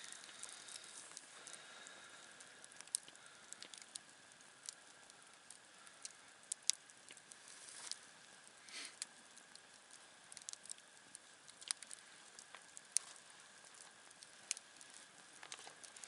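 Wood campfire crackling quietly, with sharp pops at irregular intervals over a soft hiss.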